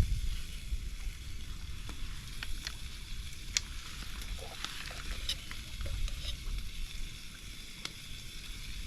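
Steak frying in a small pan over a campfire: a steady sizzle with scattered sharp pops.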